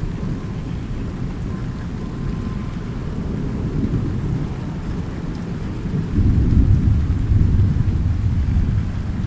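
Rain falling with a continuous low rumble of thunder; a roll of thunder swells louder about six seconds in and lasts a few seconds.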